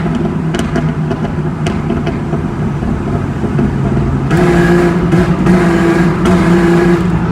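Jeep Cherokee XJ engine running through a loud new aftermarket exhaust, heard from inside the cab. About four seconds in the exhaust note gets louder under throttle, in three pulls with short breaks between them.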